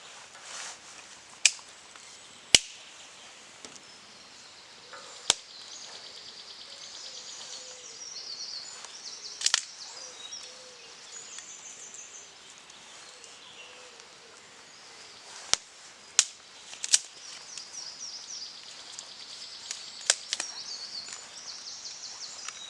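Small campfire crackling, with about a dozen sharp, irregular pops and snaps, over faint rapid high-pitched chirping.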